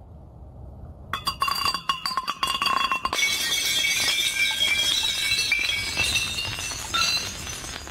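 Glass clinking and ringing: sharp clinks begin about a second in, then thicken after about three seconds into a dense jangle of many ringing glass pieces.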